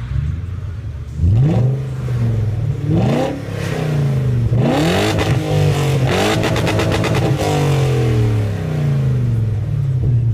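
BMW E38 740i V8 with its rear silencers removed and catalytic converters gutted, revving up several times in rising and falling sweeps. Around the middle there is a rapid string of exhaust cracks and pops, and then the revs fall away.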